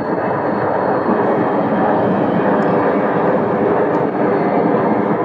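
Jet airliner engines running loud and steady, a dense rushing roar.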